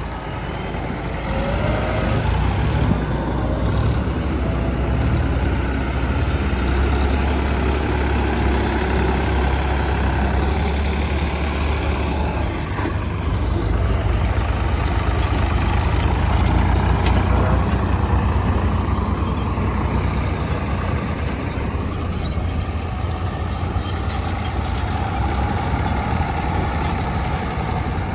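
Heavy diesel engine running steadily, getting louder about two seconds in, with its low note shifting in pitch about halfway through.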